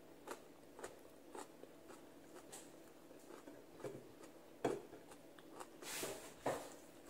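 Close-up chewing of crunchy, half-cooked sautéed mustard greens: a string of faint crisp crunches about two a second, a few of them louder.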